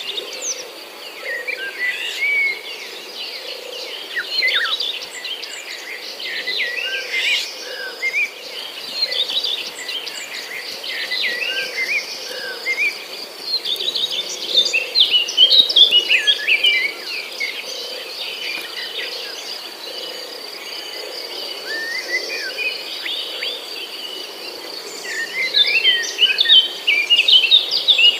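Jungle ambience: many birds chirping and whistling over a steady high insect trill. The bird calls come thickest about halfway through and again near the end.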